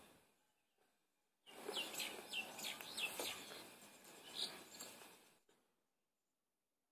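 Several short, falling bird chirps over a background hiss, starting abruptly about a second and a half in and dying away about four seconds later.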